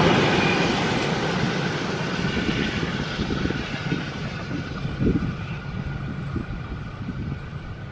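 Passenger train rolling past with its trailing 44 class diesel locomotive 4490, the wheel and engine noise steadily fading as the train draws away.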